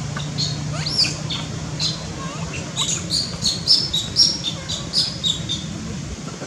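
Birds chirping in many short, high notes, busiest in the middle of the stretch, with one rising whistled note about a second in. A steady low hum runs underneath.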